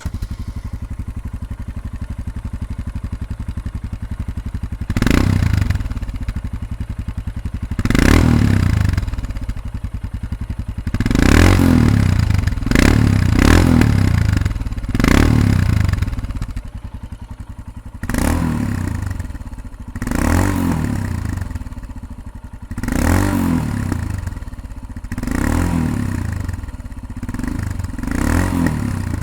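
Royal Enfield Himalayan single-cylinder engine through a PoweRage slip-on exhaust with its dB killer fitted. It idles steadily for about five seconds, then is blipped repeatedly, about ten short revs each rising and falling back to idle.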